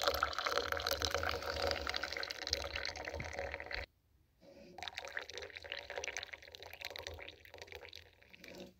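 Tea pouring from a samovar tap into a glass, in two pours: the first stops sharply about four seconds in and the second starts about half a second later.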